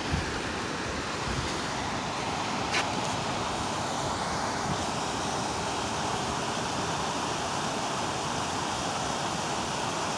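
Steady rush of water over creek rapids below a waterfall, with a brief faint tap about three seconds in.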